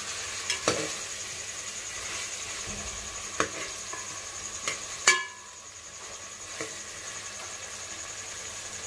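Potato and taro pieces sizzling as they fry in oil and masala in a metal pot, stirred with a metal slotted spatula that knocks against the pot several times. The loudest knock, about five seconds in, rings briefly.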